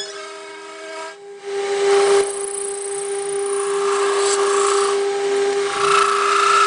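A power tool working metal: a steady high whine with a hiss that swells and fades, dipping briefly about a second in.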